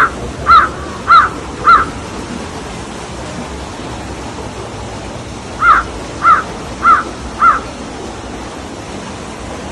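A crow cawing in two runs of four harsh calls, evenly spaced about half a second apart: one run right at the start and another about six seconds in, over a steady rushing background.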